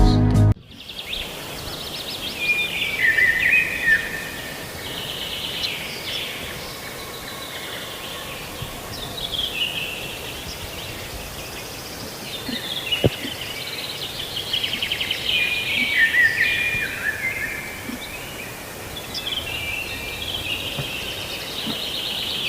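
Birds singing outdoors: repeated chirping and trilling phrases, many falling in pitch, over faint background noise. Music stops just before them.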